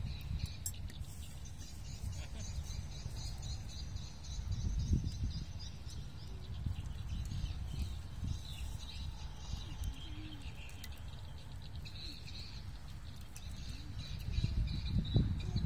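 Small birds chirping repeatedly over a low, gusting rumble of wind on the microphone. The wind surges about five seconds in and again near the end.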